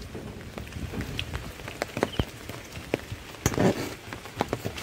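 Rain falling, with many sharp taps of drops landing on an umbrella overhead. A louder knock comes about three and a half seconds in.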